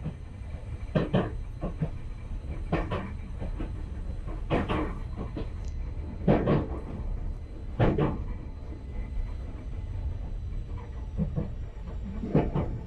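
Enoshima Electric Railway (Enoden) train running, heard from on board: a steady low rumble with a heavy clunk every second or two, and a quieter stretch without clunks in the second half.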